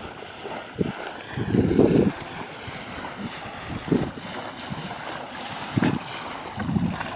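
Wind buffeting the microphone in gusts over a steady wash of water, aboard a boat drifting on open water.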